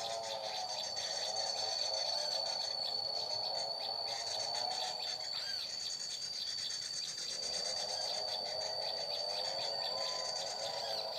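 Insects trilling: one high, unbroken cricket-like trill, over a lower warbling chorus that drops out for about two seconds in the middle.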